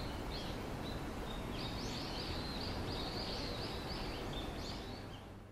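Small birds chirping repeatedly over a steady low outdoor background rumble. It all fades out near the end.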